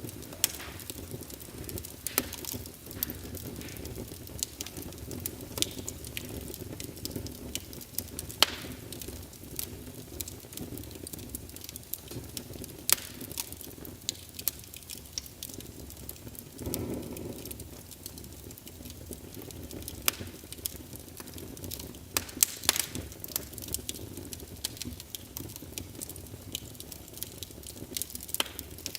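Wood logs burning in a fireplace: a steady low rush of flame, scattered throughout with sharp crackles and pops. There is a brief louder swell of the flames about two-thirds of the way through.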